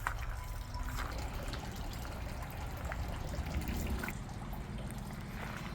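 Steady trickle of running water, with a low rumble underneath.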